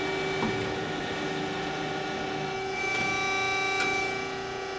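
DoAll TF-2021NC CNC vertical band saw running in its automatic cycle, a steady machine whine. A higher whine joins in for about a second and a half near the middle, with a small click during it.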